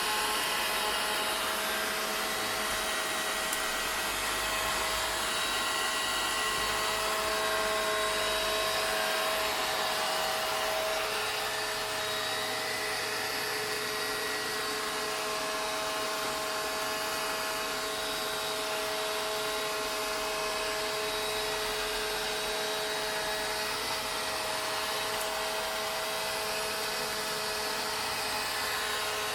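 Vacuum cleaner running steadily: an even rush of air with a constant motor whine and no change in pitch.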